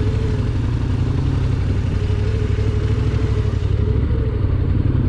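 Dirt bike engine running at low speed, a steady low rumble of rapid even pulses.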